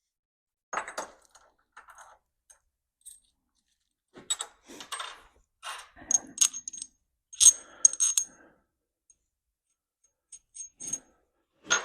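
Loose steel nuts and washers clinking together as they are handled and sorted, a scatter of small metallic clicks, some with a brief high ring, busiest about two-thirds of the way through.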